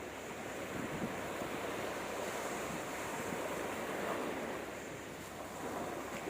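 Sea waves washing onto a beach, a steady surf noise that slowly rises and falls, with some wind on the microphone.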